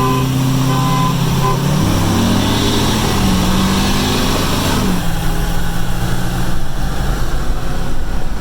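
Pickup truck engine heard from inside the cab, most likely the stock GMC Denali's 6.2 L V8, over road and wind noise. The engine note holds steady, rises and falls over a few seconds from about two seconds in, then settles to a lower steady drone.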